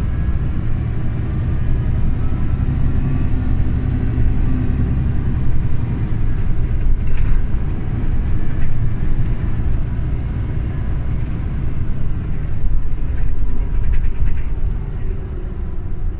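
Scania OmniLink CL94UB city bus driving along: a steady engine and road rumble with a few short rattles.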